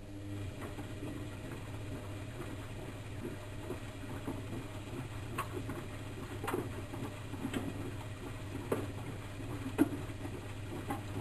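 Bauknecht WAK7760 washing machine on its 40 °C coloureds programme: the drum motor starts up with a steady low hum and turns the drum, with scattered clicks and knocks as the wash moves about inside.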